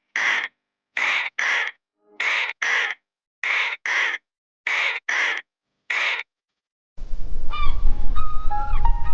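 Crow cawing: about ten short, harsh caws, mostly in pairs, with silent gaps between. About seven seconds in, a different recording takes over, with a steady low rumble and short pitched calls.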